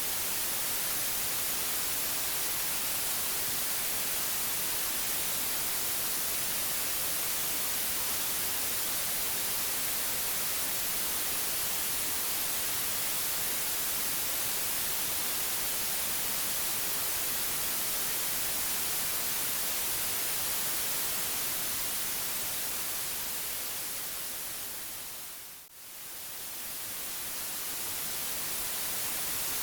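Steady synthetic white noise, an even hiss strongest in the high end. About 26 seconds in it briefly fades down and swells back up, as at a loop point.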